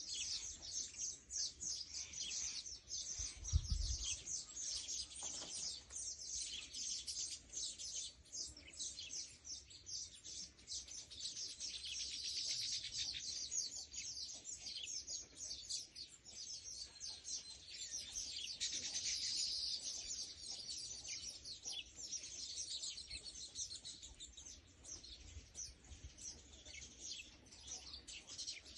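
Small birds chirping and tweeting in quick, overlapping succession without a break. A brief low thump about three and a half seconds in.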